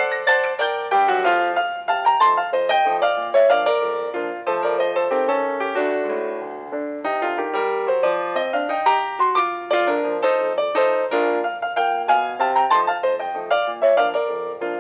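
Background piano music: a light melody of quick notes played over a steady accompaniment.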